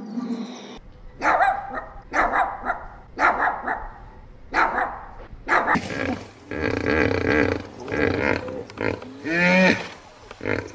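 Animal calls: five separate loud calls about a second apart, then denser calls, with one call near the end that glides up and down.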